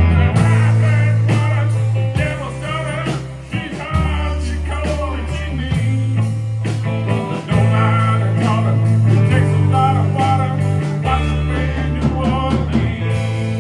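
Live band playing a blues-rock passage: a bass guitar holds low notes that change every second or two, under steady drums and a wavering lead line.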